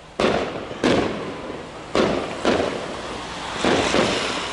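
Fireworks display shells bursting overhead: about five sharp bangs in under four seconds, each trailing off in echo.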